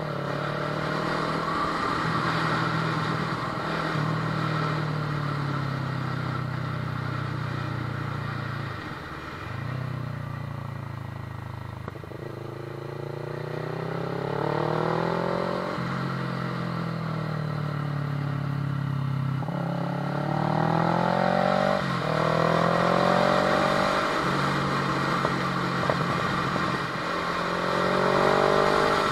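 Kawasaki ER-6n's parallel-twin engine under way, its revs rising and falling repeatedly, with several sudden pitch drops where it changes gear or rolls off the throttle.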